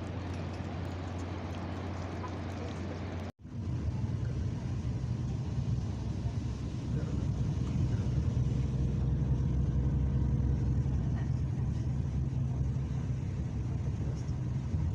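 A car driving, heard from inside the cabin: a steady low rumble of engine and road noise. It drops out abruptly about three seconds in and resumes, a little louder.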